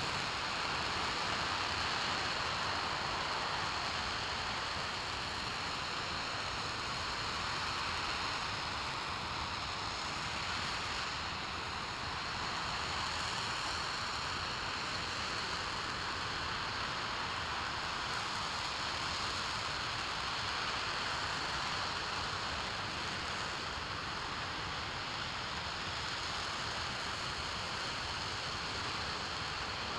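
RS-25 liquid-hydrogen/liquid-oxygen rocket engine firing on a test stand: a continuous, even roar with a faint steady high whine.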